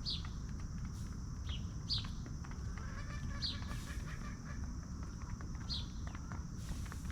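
A bird chirping: about five short, high chirps spaced a second or more apart, each falling in pitch, over a steady high hiss and a low rumble.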